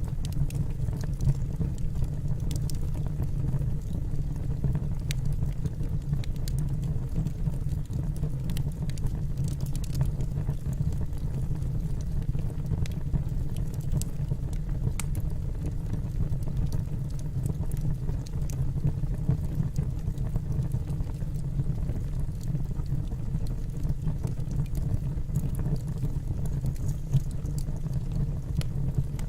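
Wood logs burning in a fireplace: a steady low rumble of the fire with scattered sharp crackles and pops from the wood.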